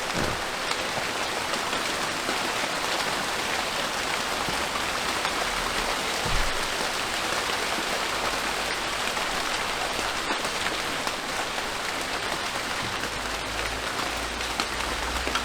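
Steady rain falling, an even hiss of drops throughout, with a low rumble coming in near the end.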